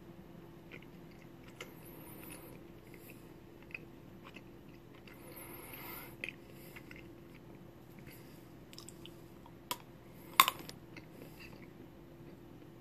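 Close-up chewing of a wax crayon, with small crackles and clicks as it is ground between the teeth. There are two sharp cracks near ten seconds in, the second the loudest.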